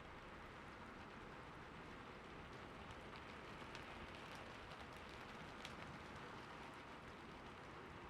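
Soft steady rain, with scattered individual drops ticking through the hiss.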